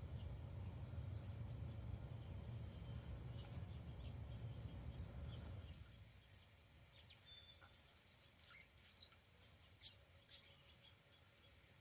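Hummingbird squeaking: very high-pitched, rapid squeaky chatter in several bursts, starting a couple of seconds in. A low rumble underneath stops about halfway through.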